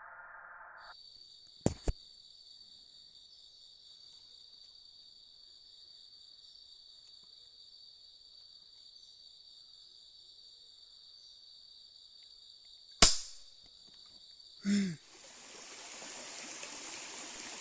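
An air rifle fires once about thirteen seconds in: a single sharp crack, the loudest sound here, followed a moment later by a short duller sound. Under it runs a steady high insect drone. Two quick clicks come a couple of seconds in, and a rushing, water-like noise sets in near the end.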